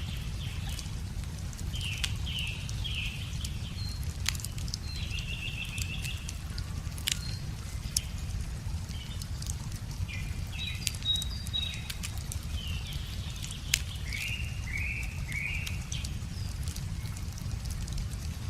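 Wood fire crackling, with scattered sharp pops, over a steady low rush of a river; a bird calls in short falling notes twice and trills between.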